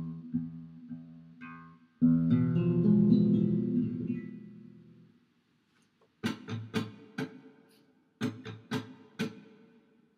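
Flamenco guitar: strummed chords ring out and fade, a second chord about two seconds in dies away to a short pause, then a run of short, sharp strummed strokes starts about six seconds in.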